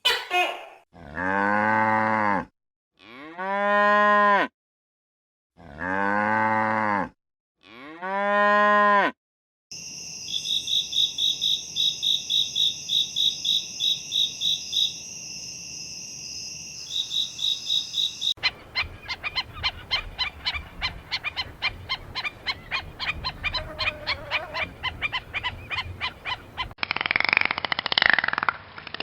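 Cattle mooing: four long, low calls, each rising and falling in pitch, in the first nine seconds. They are followed by a steady high pulsing chirp, then a fast run of clicks, and near the end a different noisy sound.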